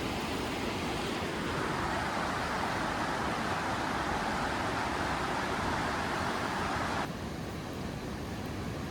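Steady outdoor rushing noise with no distinct events. About seven seconds in it suddenly drops in level and loses its middle range.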